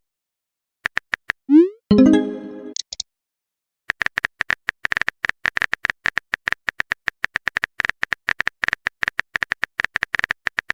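Phone messaging sound effects: a short rising swoosh and a chime about two seconds in, then a fast run of keyboard typing clicks.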